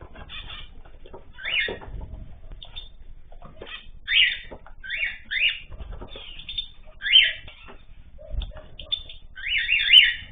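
Caged ornamental birds calling: a string of short, loud calls, several in quick succession near the end, with low thumps of wings flapping in between.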